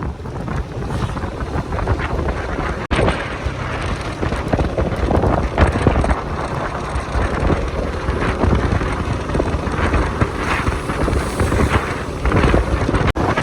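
Wind buffeting a helmet or bike-mounted microphone on a moving motorcycle, over the engine and road noise. The sound cuts out for an instant twice.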